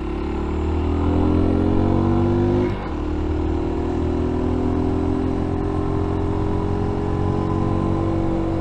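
F.B Mondial Pagani 300 motorcycle engine pulling hard, its pitch rising for nearly three seconds, then dropping abruptly as it shifts up a gear, and running on under steady throttle with the pitch slowly climbing again.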